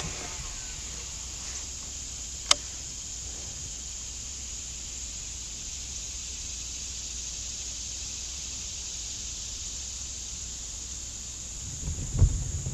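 Steady chorus of insects, crickets or the like, buzzing high in the background, with one sharp click a couple of seconds in and a few low knocks near the end.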